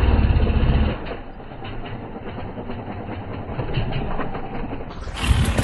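Motocross bike engine running loud and low for about the first second, then dropping back to a quieter, rough running noise with scattered clatter.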